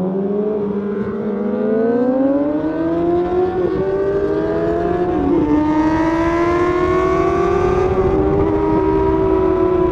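Suzuki GSX-R sport bike's inline-four engine pulling hard under acceleration, its note climbing in pitch and briefly dipping about three times as it shifts up through the gears, with wind rushing over the microphone.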